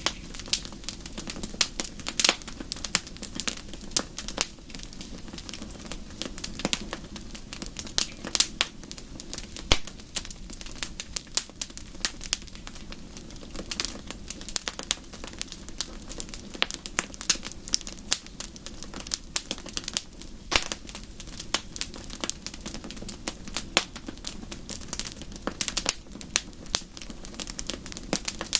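Wood fire in a fireplace crackling: irregular sharp snaps and pops, some loud, over a steady low rush of the flames.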